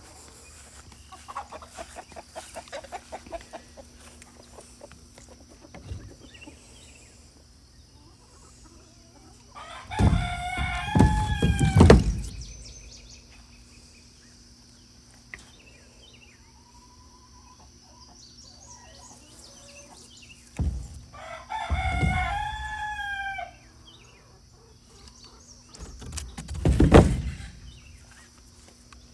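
Rooster crowing twice, about ten seconds in and again about twenty-two seconds in, with chickens clucking in short bursts early on. A loud rumbling thump comes near the end.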